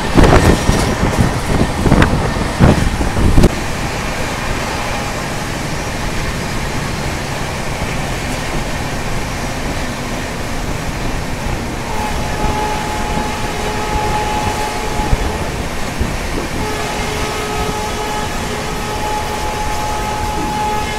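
A moving passenger train heard from its open coach doorway: rushing air and rail noise. For the first few seconds it is gusty with sharp knocks, then it settles into a steady rumble. From about twelve seconds in, a thin steady whine comes and goes over it.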